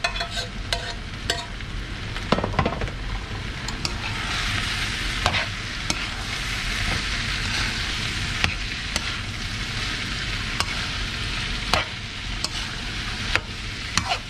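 Diced pork lung and heart frying in hot oil in a wide aluminium pan, sizzling steadily and growing louder about four seconds in. A metal ladle stirs them, clicking and scraping against the pan now and then.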